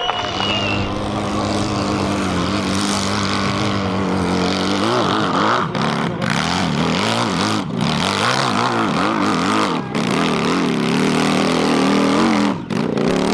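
Racing motorcycle engine running hard. Its pitch holds steady at first, then rises and falls over and over with brief breaks as it revs and shifts gears through the bends.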